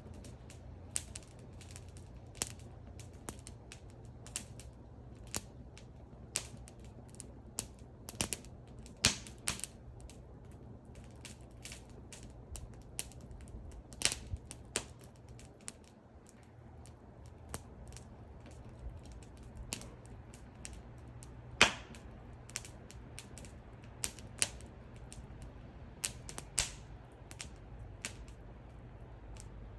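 Wood fire crackling: irregular sharp pops and snaps of burning wood, one much louder pop about two-thirds of the way through, over a steady low rumble.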